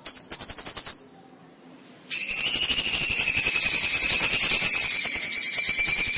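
A cucak cungkok singing loudly: a short rapid rattling trill, a pause of about a second, then a long unbroken high buzzing trill that runs on without a break.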